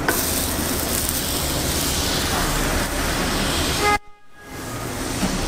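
Steady rumbling hiss of a passing train. About four seconds in, a brief horn-like pitched tone sounds and is cut off by a sudden short silence.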